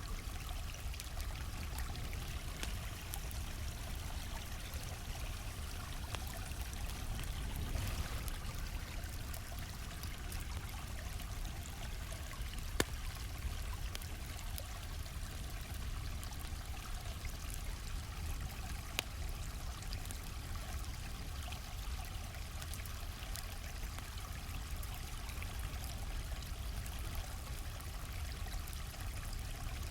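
A flowing stream's steady rush and trickle, with scattered crackles from a wood campfire and two sharper pops, the first a little before the middle.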